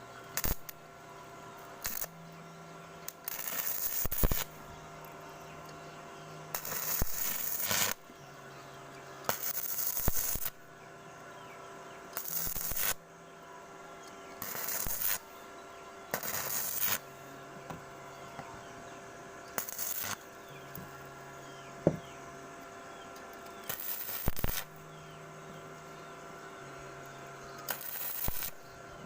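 Intermittent rasping strokes of a hand tool on a motorcycle exhaust pipe as its end is cut off, one stroke every second or two, over a faint steady hum.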